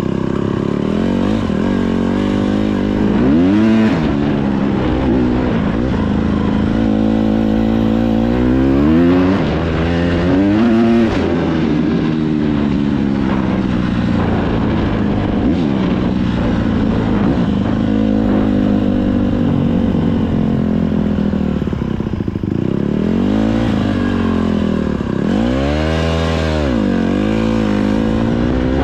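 Dirt bike engine running under throttle, its pitch rising and falling as the rider revs up and eases off, with several sharp rev swells.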